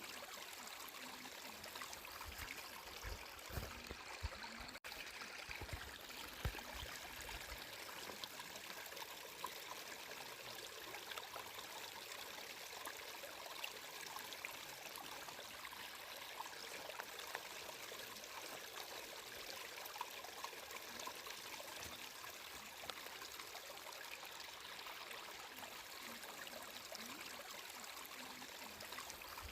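Water flowing steadily in a stream, an even trickling wash with a few soft low thuds in the first several seconds.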